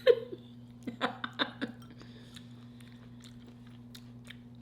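Close-miked chewing of food: several loud, short mouth sounds within the first two seconds, then faint chewing clicks.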